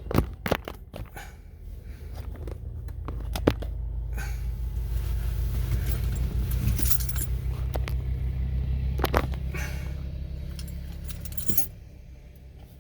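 Keys jangling with a few sharp clicks, then a car engine runs with a low, evenly pulsing rumble for about nine seconds and stops with a click about a second before the end.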